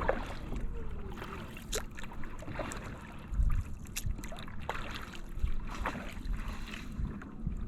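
Kayak paddle strokes: paddle blades dipping, with water splashing and dripping in scattered small splashes and drips. Wind rumbles on the microphone underneath.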